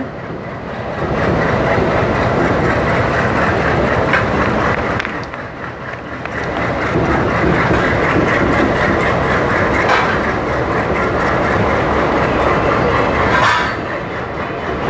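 Passenger train pulling out of a station, heard from the open doorway of a coach: a steady rumble and clatter of wheels on the rails, with a few sharper clicks.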